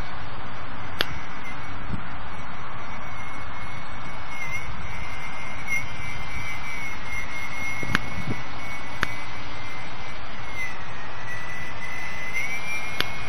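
Electric RC plane's 1050 kV motor and cut-down 7x5 propeller whining in flight, the pitch drifting slightly up and down with throttle, under heavy wind rumble on the microphone. A few sharp clicks break through.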